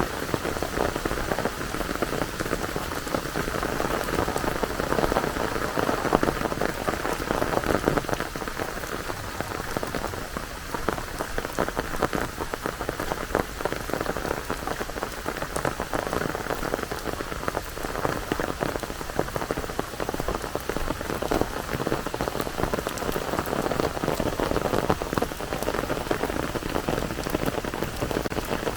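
Steady rain falling, a dense patter of drops striking surfaces close by.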